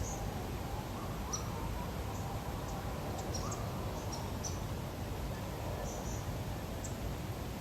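Outdoor lakeside ambience: a steady low background rush with small birds giving short, high chirps scattered throughout, about a dozen, and a few faint lower whistled notes.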